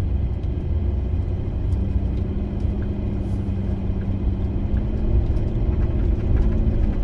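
Road and engine rumble inside a moving van's cabin, with a steady hum that comes in about a second in and stops near the end.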